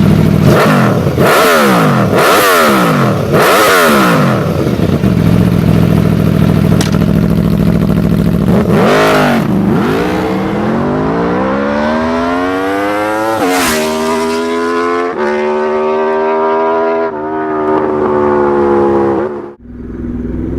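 Superbike engine revved in several quick blips, then settling to a steady idle. One more blip follows, then it pulls away, rising in pitch with drops at each gear change, and falls away sharply near the end.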